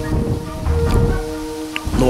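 A man chewing a mouthful of raw fish close to the microphone: wet mouth sounds and a few short crackles over a low rumble on the microphone.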